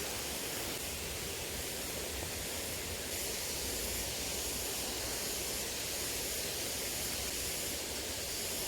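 Small river flowing: a steady, even rush of water with no breaks.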